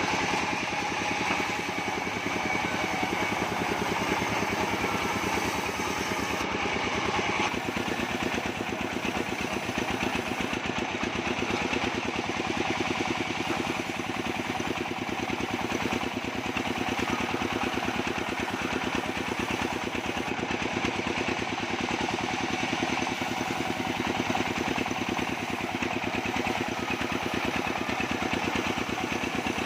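Engine of a portable band sawmill running steadily at a constant speed, with a fast, even pulsing.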